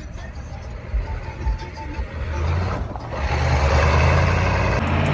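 Vehicle engine running, with a few low knocks in the first two seconds, then revving up under throttle and growing much louder about halfway through, joined by a loud rushing noise.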